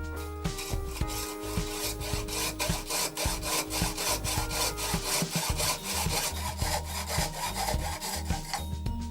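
Hand saw cutting through a pipe clamped in a vise, in steady back-and-forth strokes, over background music.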